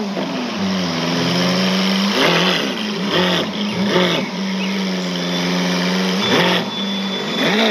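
Lamborghini Aventador's V12 engine running at low revs, blipped sharply about five times, the pitch jumping up and falling back each time.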